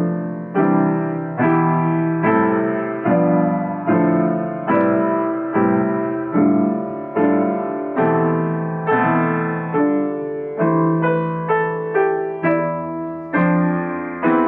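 Improvised piano playing: slow notes and chords struck about once a second, each ringing and fading before the next, coming a little quicker past the middle.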